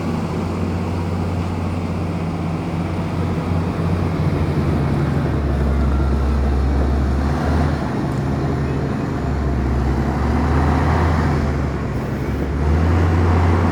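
Komatsu bulldozer's diesel engine running under working load, its low note growing louder about five seconds in and again near the end.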